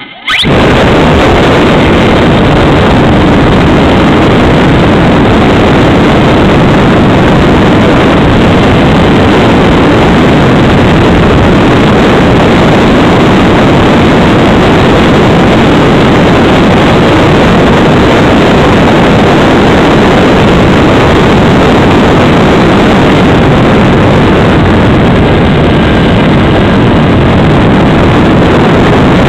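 Onboard microphone on a Freewing Spacewalker electric RC plane, overwhelmed by the motor and propeller with wind rushing past. It kicks in suddenly just after the start and stays very loud and steady.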